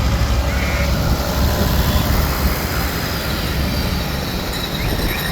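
Tractor engines running with a steady low rumble.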